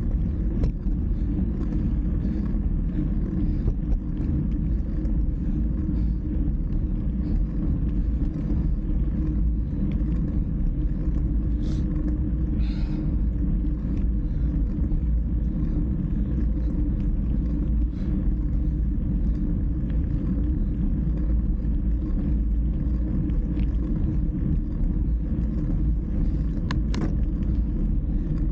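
Steady low wind rumble buffeting the microphone of a moving bike, with a couple of brief high squeaks near the middle and near the end.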